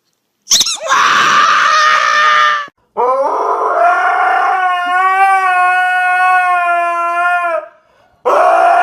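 A dog howling: one long, steady howl lasting about four seconds, after a shorter, rougher cry, with another short cry starting near the end.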